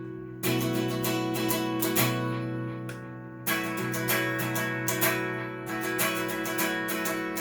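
Cort S series electric guitar played clean through a Fender amp: chords strummed with a new one about every two seconds, each left to ring and die away.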